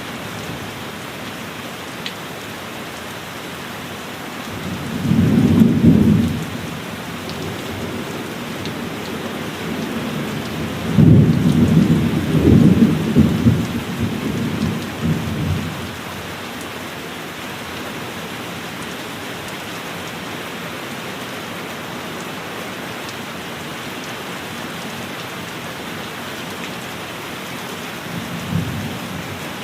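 Steady heavy rain with thunder: a short rumble about five seconds in, a longer rolling peal with several surges from about eleven to fifteen seconds, and a small rumble near the end.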